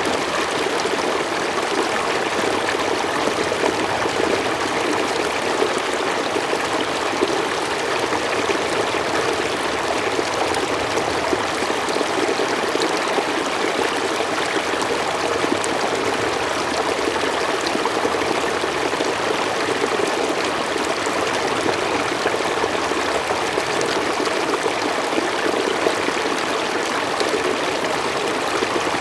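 Mountain stream flowing steadily over rocks, an even rushing and trickling of water.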